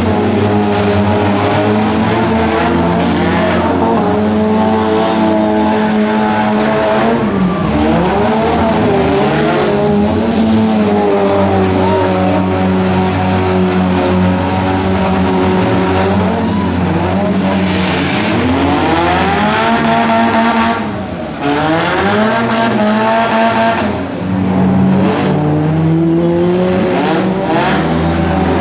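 Several derby cars' engines running hard together, revving up and down over and over as they race around a figure-8 dirt track.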